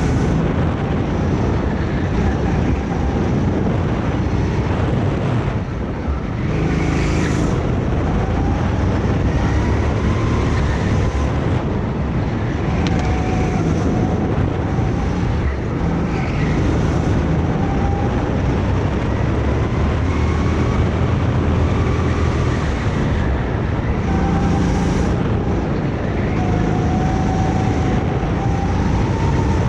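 Go-kart engine running hard through laps, its pitch rising and falling over and over as the kart accelerates and slows for corners, with a brief dip about six seconds in.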